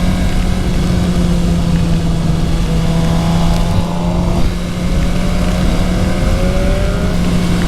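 Suzuki GSX-R750's inline-four engine running steadily under way, heard from the rider's microphone with wind rumble. Faint rising whines come and go in the middle as the revs climb.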